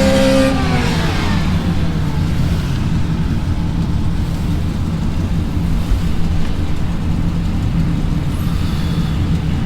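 Dodge Charger Scat Pack's 392 (6.4 L) Hemi V8 cruising at a steady low drone, heard from inside the cabin along with road noise.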